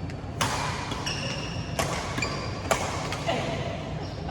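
Badminton rally: a racket hits the shuttlecock three times, with sharp cracks about 1.4 and 0.9 seconds apart. Between them come short high squeaks of court shoes on the hall floor.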